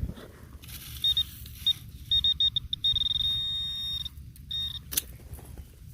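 Handheld metal-detecting pinpointer sounding a high electronic beep: a few single beeps, then beeps coming faster until they merge into a steady tone for over a second, then one short beep. The quickening and solid tone mark the probe closing in on a coin, a dime. A sharp click follows near the end.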